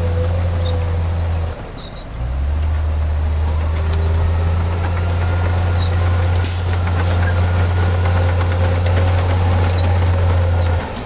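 Heavy construction-machine diesel engine running steadily with a low drone. The drone drops out briefly about a second and a half in and again near the end.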